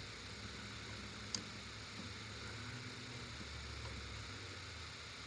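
Quiet steady low hum and hiss with one sharp click about a second in, as wires are joined at the refrigerator's compressor relay.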